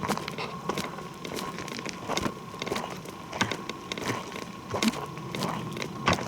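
Footsteps walking over forest floor, with irregular crunches and crackles of leaf litter and twigs underfoot, a few steps a second. A thin steady high tone runs beneath.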